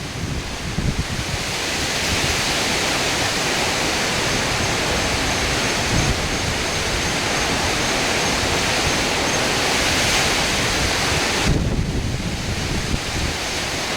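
Hurricane wind and heavy rain: a loud, steady rushing hiss with gusts buffeting the microphone. The hiss eases briefly about eleven and a half seconds in.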